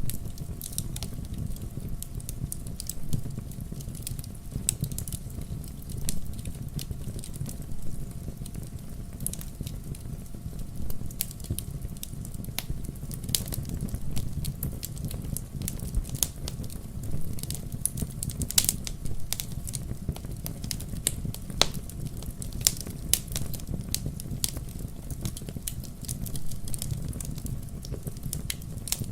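Wood fire in a fireplace: logs crackling and popping in irregular sharp snaps over a steady low rumble of the flames.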